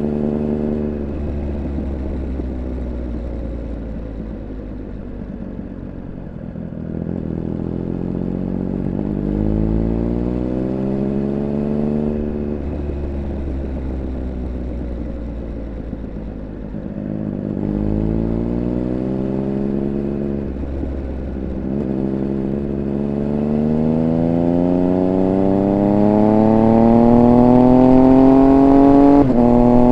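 Triumph Speed Triple 1200 RR's inline three-cylinder engine under way: the note falls off the throttle, climbs as it accelerates, falls again, then pulls in a long rise that grows louder. Near the end there is a quick drop in pitch, as at an upshift.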